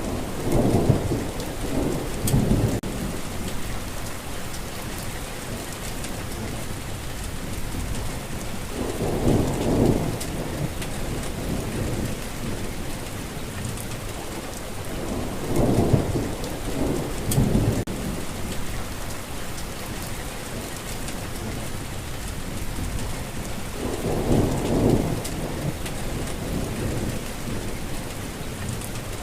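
Steady rain falling, with four low rolls of thunder that swell and fade, each lasting a second or two.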